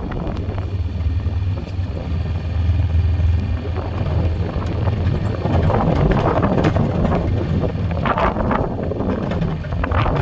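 Four-wheeler (ATV) engine running steadily, with wind rushing on the microphone in surges during the second half.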